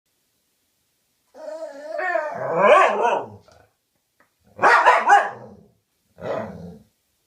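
A dog vocalizing back in the 'talking' way: three wavering, pitched utterances, the first long and drawn out, starting just over a second in, the last one short.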